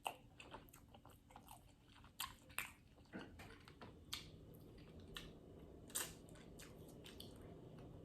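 Close-miked eating of a seafood boil: quiet chewing and biting with scattered sharp clicks and crunches, a few louder ones near the start, about two seconds in and about six seconds in.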